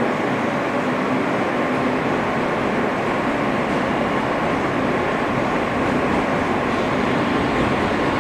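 R160 subway car running between stations, heard from inside the car: a steady rumble of wheels on the rails with a faint, even hum from the running gear.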